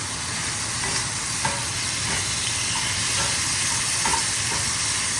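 Steak tips and garlic sizzling in butter in a hot cast iron skillet, a steady frying hiss with a few light ticks scattered through it.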